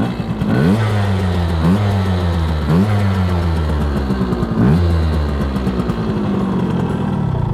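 Kreidler Florett 50cc two-stroke single-cylinder motorcycle engine running under way. Its note rises sharply and then sags slowly, about four times, as the throttle is opened and eased.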